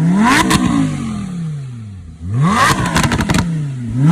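Car engine revving hard through a loud exhaust: the pitch climbs and falls back twice, with sharp crackles near each peak. Described as super loud.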